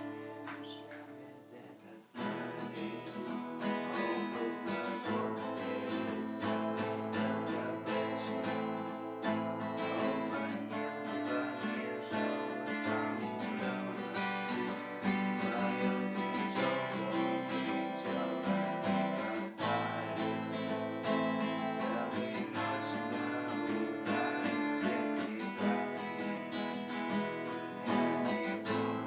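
Acoustic guitar being strummed, music that starts in full about two seconds in and keeps going.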